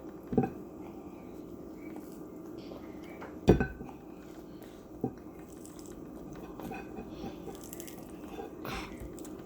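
Tableware knocking on a table: three sharp knocks, the loudest about three and a half seconds in, over a steady low hum.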